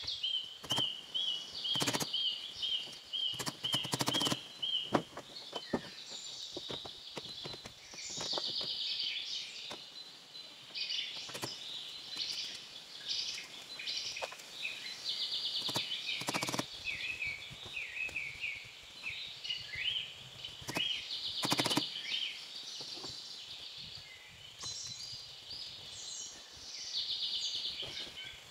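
Several birds singing and chirping. Near the start one repeats a short high note about four times a second. Sharp knocks come every few seconds, a few of them close together early on, and the loudest single ones later.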